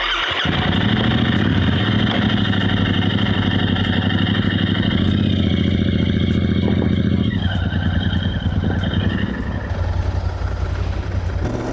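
Cafe racer motorcycle engine running steadily, its note easing slightly about seven and a half seconds in.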